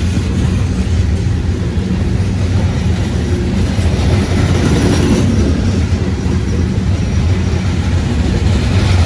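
CSX freight train passing close by with a loud, steady low rumble and some wheel clatter.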